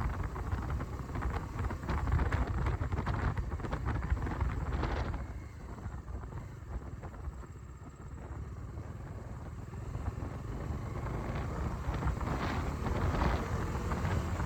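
Motorcycle on the move: low engine rumble under wind buffeting the microphone. It eases off for a few seconds midway, then builds again.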